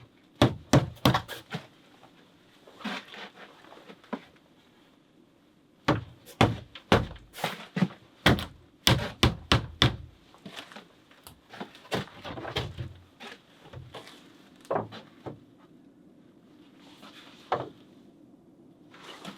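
Repeated sharp blows on wood: a quick handful in the first second and a half, a longer run of about three knocks a second from about six to ten seconds in, then a few scattered single knocks.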